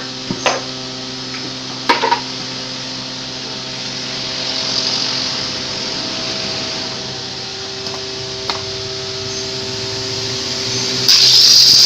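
A few light knocks of wood being handled over a steady hum, then a power tool starts up loudly near the end.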